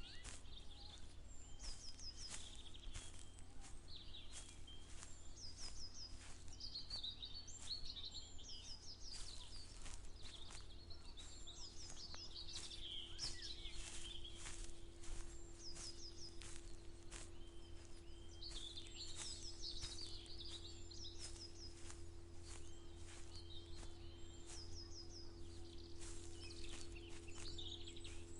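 Small birds singing: one repeats a short, high phrase about every two seconds while others twitter. Under them, a person's footsteps walk at an even pace over a faint steady hum.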